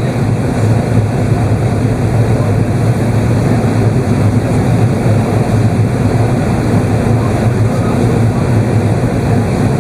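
Steady cabin noise inside an Airbus A380 airliner: engine and airflow noise with a heavy low hum, heard from the upper deck.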